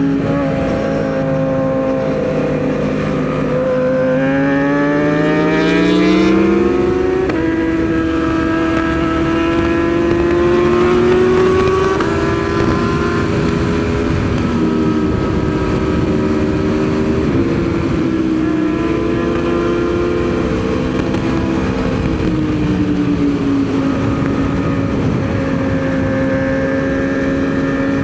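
Aprilia Tuono V4 motorcycle's V4 engine at speed on track. It climbs in pitch for the first several seconds and drops sharply about seven seconds in, then runs at fairly steady revs with small dips and rises. It climbs again near the end, with a steady rush of wind behind it.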